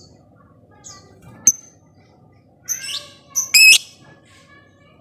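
Lovebird calling in sharp, shrill chirps: a single short chirp about a second and a half in, a brief chattering call just before the middle, and the loudest, harsh call right after it, over fainter steady bird tones.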